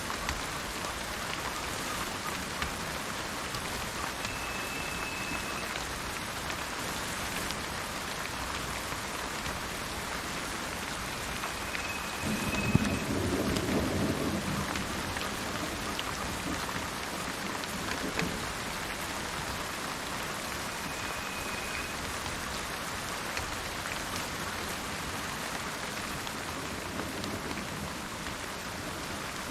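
Steady rain falling, with a low rumble of thunder about twelve seconds in that lasts a couple of seconds. Three faint, short, high whistles sound over the rain.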